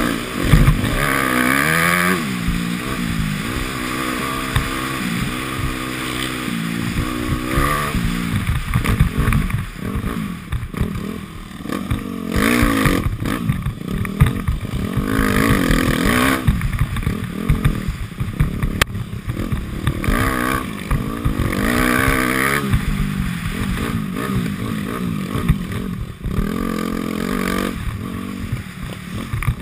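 Dirt bike engine revving up and falling back again and again as it is ridden, heard from on board the bike.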